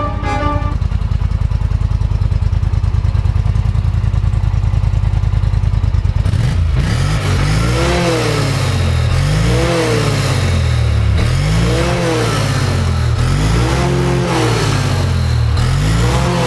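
Polaris Sportsman 850 XP ATV's parallel-twin engine through a SuperTrapp Mudslinger aftermarket exhaust, idling steadily with a fast, even pulse, then blipped five times about two seconds apart, each rev rising and falling back to idle.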